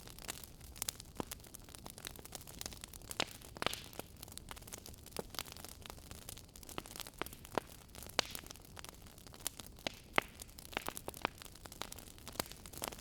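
Wood fire crackling in a fireplace: irregular sharp pops and snaps of varying loudness over a soft steady hiss.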